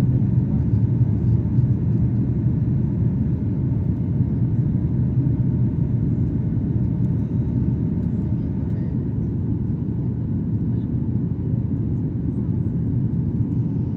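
Jet airliner engines and airflow heard as a steady low rumble, easing slightly toward the end, typical of the climb after takeoff.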